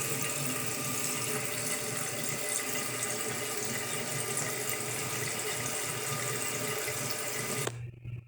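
Water running steadily, shut off abruptly near the end, after which a low steady hum remains.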